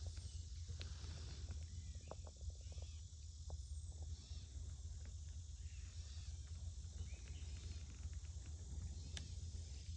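Forest ambience: a steady high chirring of insects over a constant low rumble, with scattered small clicks and snaps.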